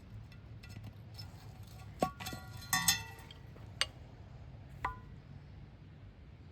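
Several light clinks of hard objects knocked together, each with a short ring, between about two and five seconds in, over a low steady background rumble.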